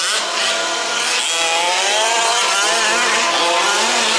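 Several 1/5-scale RC off-road trucks' small two-stroke petrol engines running at once, revving up and down as they race, with pitch rising and falling throughout.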